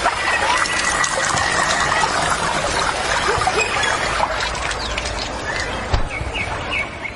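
Steady trickling water, with short bird chirps toward the end.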